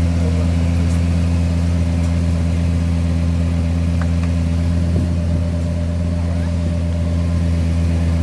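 Lexus LFA's 4.8-litre V10 idling with a steady low hum, with a couple of faint clicks about four and five seconds in.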